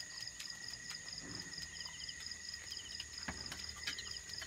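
Crickets and other insects chirping steadily, one pulsing about five times a second over higher steady trilling, with a few faint clicks.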